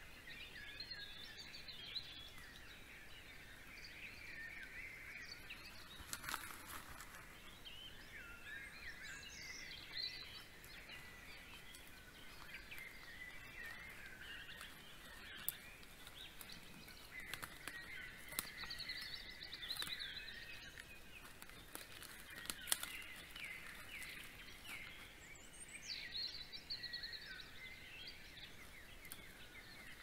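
Several songbirds singing at once, faint, with overlapping chirps and warbling phrases, and a few sharp clicks about 6, 15 and 23 seconds in.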